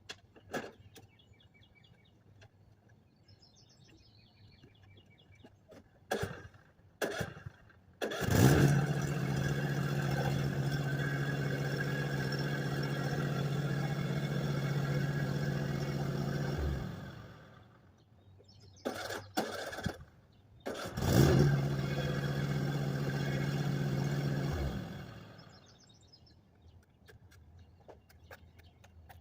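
Small petrol walk-behind lawn mower engine being pull-started: a couple of short tugs, then it catches and runs at a steady speed for about eight seconds before winding down. It is pulled again, catches, and runs for about four seconds before stopping.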